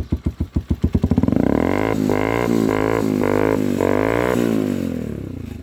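Motorcycle engine starting with slow, distinct exhaust pulses, then revved up and held in several short surges before easing back down. Its exhaust is loud.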